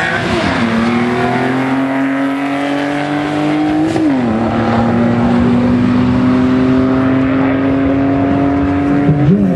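Car engine accelerating hard on a sprint run, its pitch climbing steadily in each gear. It drops sharply at the upshifts, about half a second in, about four seconds in and again near the end.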